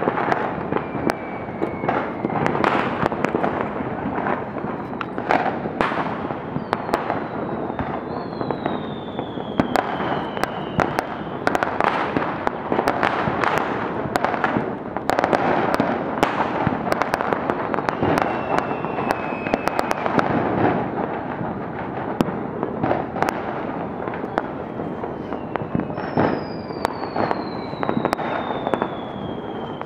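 Fireworks and firecrackers going off without pause: a dense, continuous crackle of bangs and pops. A few long whistles fall in pitch through it, the clearest about eight seconds in and near the end.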